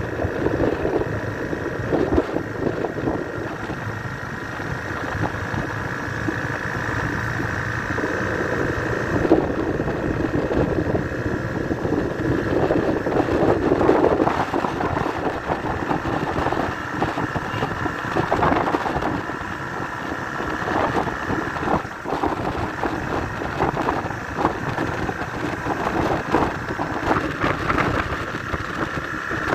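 Motorcycle engine running steadily while riding, with wind on the microphone.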